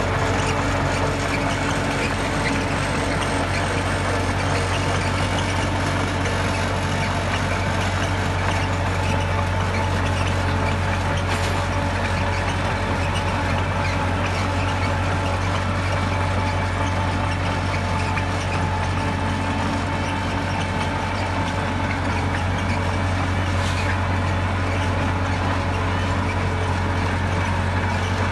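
Heavy diesel engine of earthmoving equipment running steadily, a deep, even drone.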